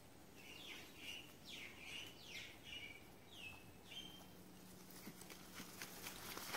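A bird calling from the trees: a quick run of short, falling chirps for the first few seconds, faint. Near the end come scattered light clicks and crackles.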